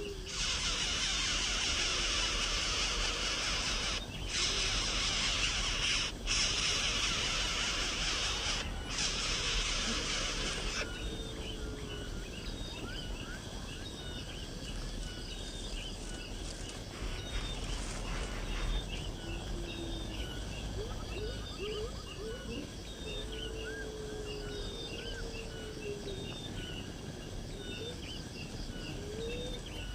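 Outdoor birdsong: a dense high hiss for the first ten seconds or so, with a few brief dropouts, cuts off sharply. After that, short high bird chirps repeat about once a second, with lower rising whistled calls now and then.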